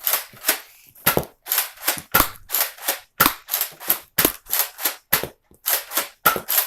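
Nerf Zombie Strike Doominator blaster firing foam darts in quick succession, about three shots a second, each a sharp clack.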